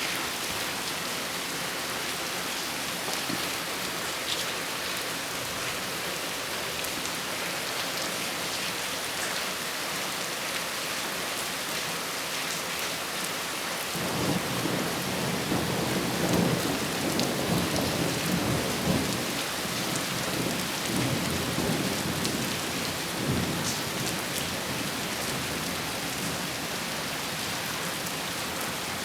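Steady rain falling during a thunderstorm. About halfway through, a long rumble of thunder rolls in and goes on for around ten seconds before fading back under the rain.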